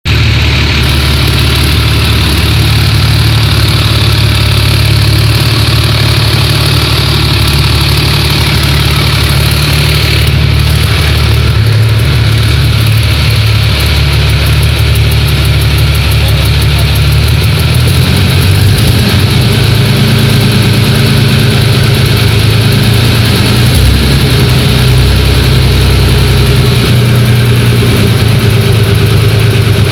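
V-6M1 six-cylinder diesel engine running steadily, with its low note shifting slightly about eighteen seconds in.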